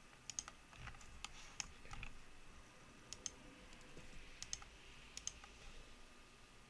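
Faint, irregular clicks of a computer mouse and keyboard, some coming in quick pairs.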